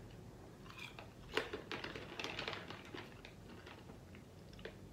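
Someone chewing Carolina Reaper kettle corn with the mouth close to the microphone: a run of soft, irregular crunches from about a second in to about three seconds, and one more near the end.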